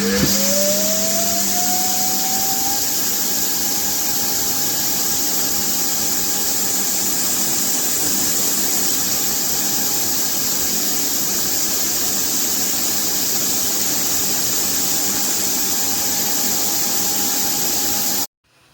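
Laresar L6 NEX self-emptying station's suction motor emptying the robot vacuum's dustbin. It spins up with a rising whine over the first few seconds, runs steadily with a loud rushing hiss, then cuts off suddenly near the end.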